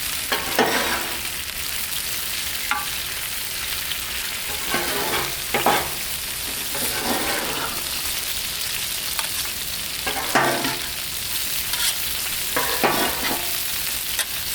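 Sauced pork bites sizzling on a Blackstone flat-top griddle: a steady frying hiss, broken by a few short clusters of scraping and clattering as a utensil works the pieces on the griddle's steel top to lift them off.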